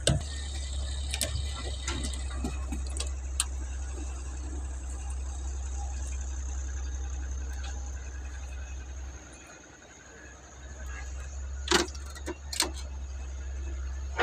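Diesel engine of a heavy earthmoving machine running steadily with a low rumble that dips briefly past the middle and comes back. A few sharp knocks of metal or material, the loudest two near the end.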